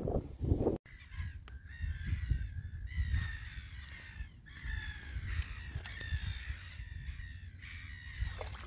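Birds calling over and over in harsh, repeated bouts, some calls falling in pitch, over a steady low rumble.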